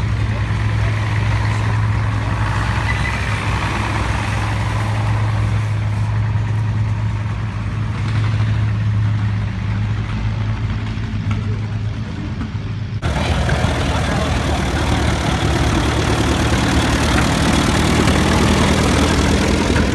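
Big farm tractor engine running with a steady low drone. About 13 seconds in, the sound cuts abruptly to a louder, noisier stretch with engines still running.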